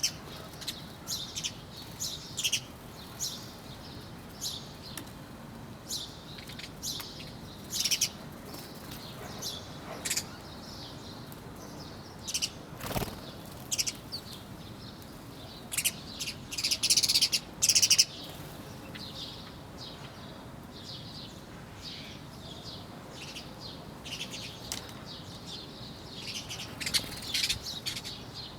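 Small birds chirping in many short, high, scattered calls over a steady faint background hiss. Louder clusters of chirps come about halfway through and again near the end.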